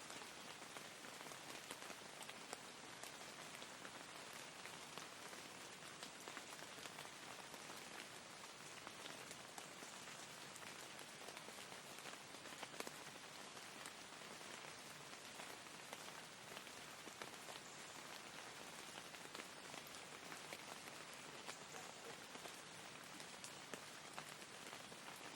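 Steady rain falling: an even, low-level hiss with a fine patter of drops, unchanging throughout.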